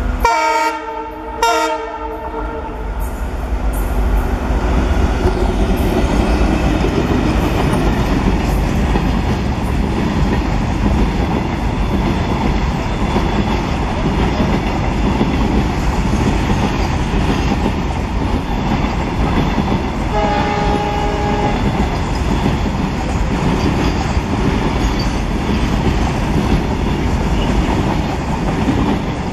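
ALCO diesel locomotive sounding its horn in a blast of about two seconds at the start, then the train running past with steady rolling wheel noise and clickety-clack over rail joints. A second, shorter horn blast comes about two-thirds of the way through.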